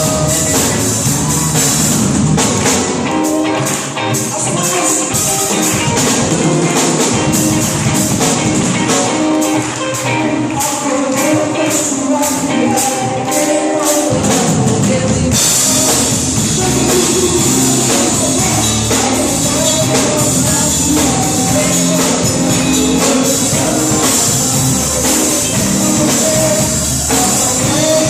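Live congregational worship music: singing over a band with tambourine and drums. The bass and fuller drums come in about halfway through.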